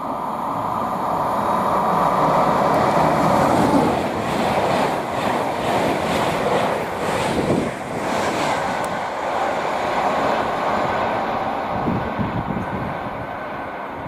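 InterCity 225 express, a Class 91 electric locomotive at the head of Mk4 coaches, passing at speed. A rising rush as it comes in, loudest about three to four seconds in, then a steady run of rhythmic wheel clatter as the coaches go by, easing off near the end.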